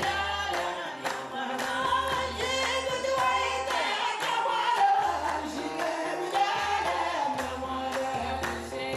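Several voices singing together over regularly repeating percussive beats.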